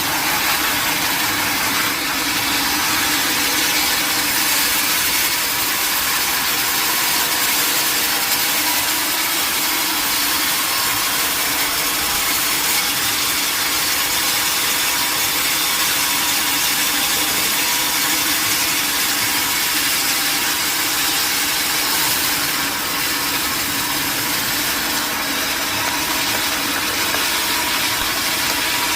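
Sawmill machinery running steadily: a loud, even hiss with a faint hum under it, with no breaks or sudden sounds.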